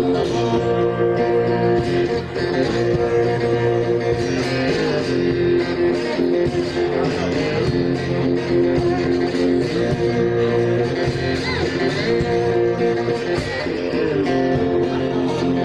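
Live blues played on guitar: an instrumental passage with no singing, steady and loud.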